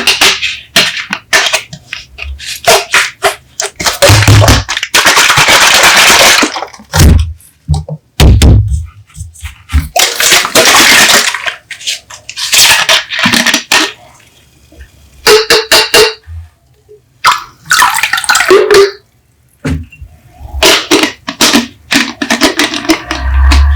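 Coca-Cola soda bottles being handled, opened and poured: a run of sharp clicks and knocks, broken by bursts of fizzing hiss that last a second or two. A few short pitched squeaks or tones come near the end.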